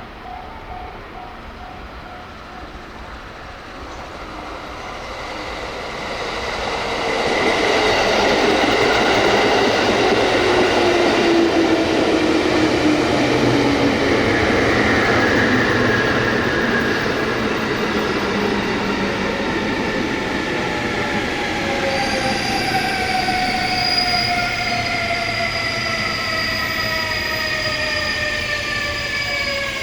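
Electric local train pulling into the station: it grows louder as it approaches, then its motor whine falls steadily in pitch as it brakes, with a high brake and wheel squeal in the second half.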